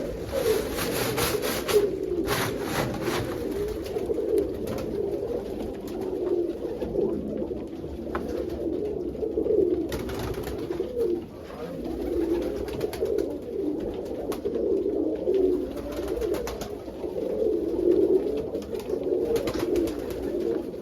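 A flock of domestic pigeons cooing continuously, many low overlapping coos, with scattered brief clicks and rustles.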